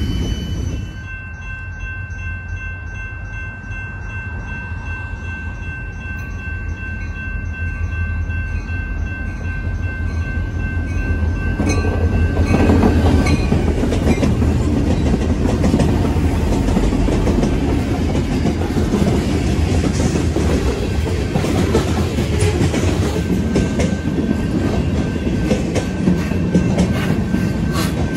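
Freight train with diesel locomotives approaching and passing close by, the sound growing steadily louder. Steady high tones ring out over the approach, the locomotives go by with a loud peak about twelve seconds in, and the freight cars follow with rattling clickety-clack over the rails.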